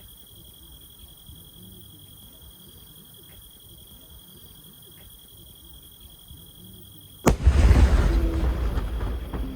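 A single firework shell bursting about seven seconds in: a sudden loud boom with a low rumble that fades over the next two seconds. Before it, only faint background with a thin, steady high-pitched whine.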